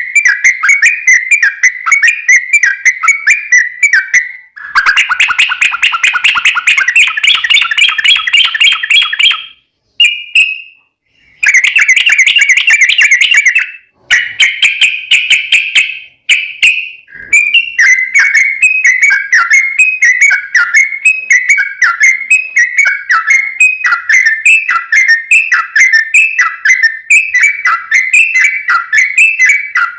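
Yellow-vented bulbul song as a lure recording: long runs of fast, rapidly repeated chattering whistled notes. The song is broken by several abrupt cuts and short gaps around a third and about halfway through.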